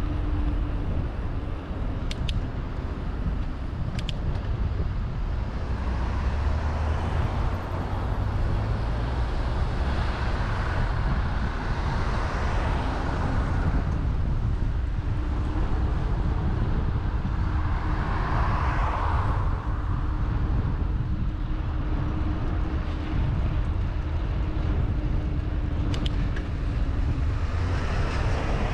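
Wind rumbling on the microphone of a camera riding along on a bicycle, with road traffic passing; vehicle noise swells up twice in the middle, and a few brief clicks sound near the start and near the end.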